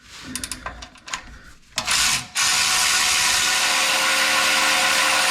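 Cordless electric ratchet undoing a splash-guard bolt: a few light metallic clicks as the socket goes onto the bolt, a brief burst of the motor near two seconds in, then the ratchet running steadily from about two and a half seconds on.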